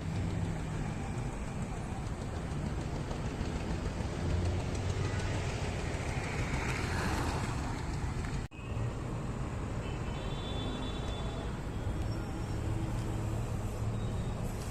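PROTOS VMX electric kick scooter passing by, its tyre and motor noise swelling to a peak about halfway through and fading, over steady road and traffic noise. An abrupt cut follows, then steady road noise with a faint high whine.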